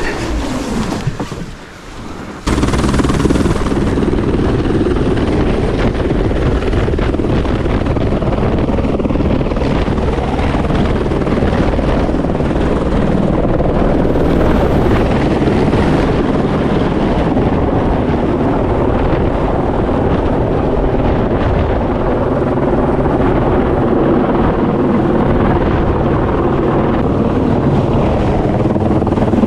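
Outboard jet boat motor running steadily at speed, a loud, even drone that comes in suddenly about two and a half seconds in.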